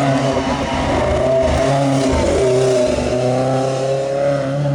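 Rally car engine revving hard, its pitch repeatedly climbing and dropping as the throttle is lifted and gears are changed.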